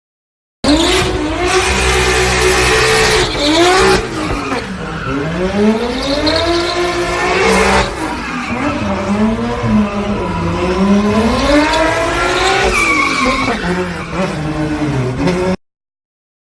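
Loud supercar exhaust revving and accelerating, the engine note climbing and dropping again and again. The sound starts and stops abruptly.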